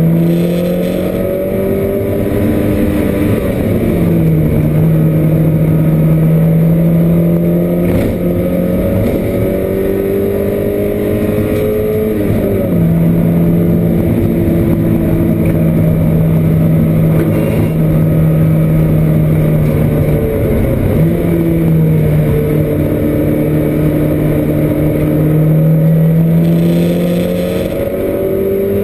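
A Porsche 924 race car's four-cylinder engine heard from inside the cockpit under racing load. The revs climb steadily and drop sharply a few times as gears change and the driver lifts for corners.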